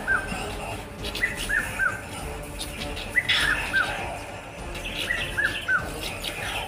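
A bird calling over and over, a short phrase of three high notes, each dropping in pitch, repeated about every two seconds.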